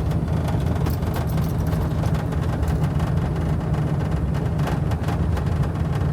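Steady low rumble of a running vehicle heard from inside its cabin, with a few faint clicks.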